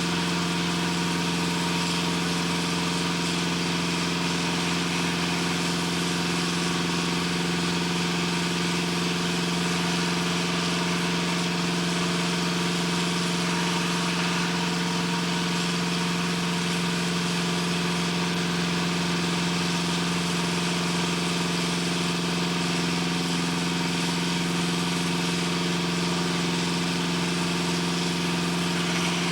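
Heavy machinery running steadily: a constant mechanical drone with a deep hum and several steady tones over a hiss, unchanging throughout.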